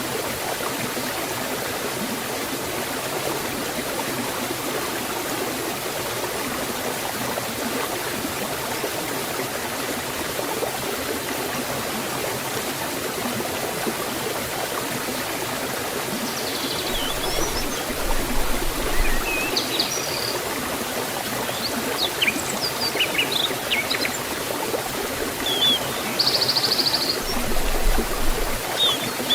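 Forest stream water flowing steadily. Birds chirp in short calls from about halfway through.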